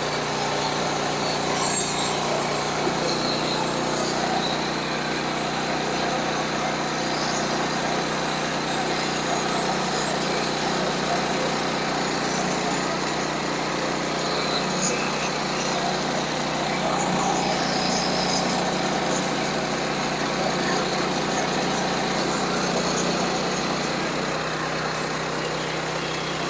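Sawmill's small gas engine running steadily at a constant pitch, with the noise of the mill at work over it.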